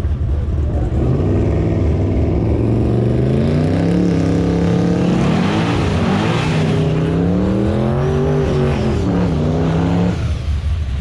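Drag-racing cars accelerating hard down the strip, the engine note climbing and dropping back as they go through the gears, loudest as they pass around the middle. The sound cuts off suddenly near the end.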